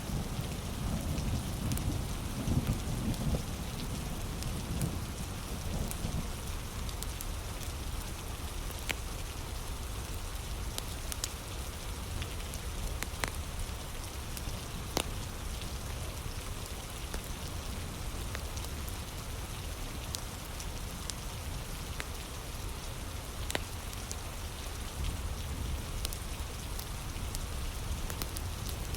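Heavy rain falling steadily, with scattered sharp pops and crackles from a wood fire. A low thunder rumble fades away over the first few seconds.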